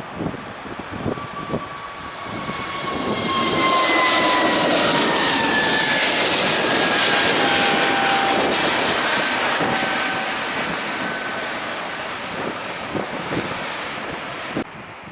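Jet airliner passing close by: its engine roar swells over a few seconds, holds, then fades, and the engine whine drops in pitch as it goes past. Gusts of wind buffet the microphone near the start and end.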